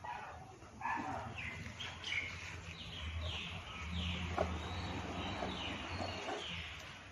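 A bird calling in a quick series of short, high falling chirps, about two a second, over a low steady hum.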